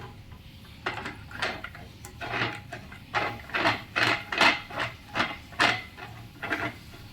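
Threaded flange of a new water-heater heating element being screwed into the tank by hand: a quick run of short scraping strokes that starts about a second in and stops near the end.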